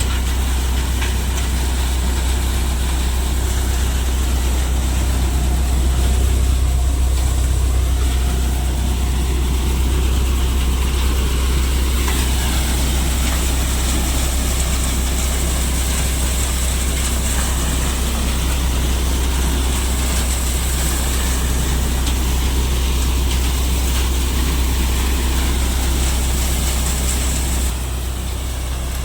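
Diesel engine of a Deutz-Fahr Agrolux 50 tractor running steadily while driving a multicrop thresher threshing mustard: a deep constant drone with a thin, steady high tone above it. The level drops slightly near the end.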